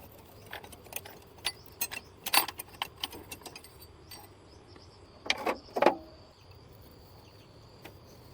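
A string of irregular clicks and light knocks, then two louder knocks a little after the middle. A faint steady high-pitched tone runs underneath from about halfway.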